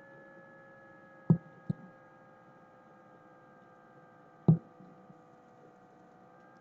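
A steady background hum with several faint steady tones that sag slightly in pitch, broken by three dull thumps: two close together just over a second in, and one more about four and a half seconds in.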